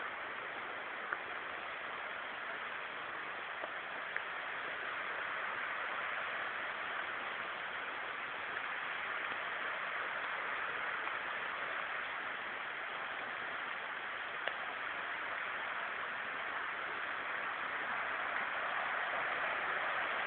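Rushing water of a hill stream or waterfall, a steady even rush that grows slightly louder toward the end, with a few faint clicks.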